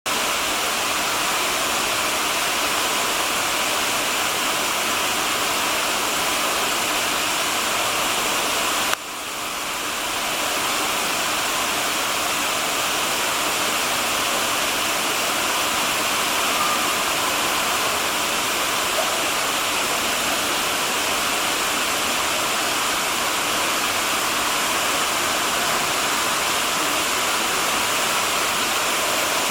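Waterfall: a steady rush of falling water. About nine seconds in it briefly drops in level and swells back.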